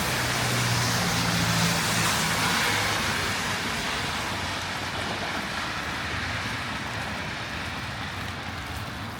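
A road vehicle passing on a wet street: its tyres hiss on the wet road and its engine hums, loudest in the first couple of seconds, then the sound slowly fades away.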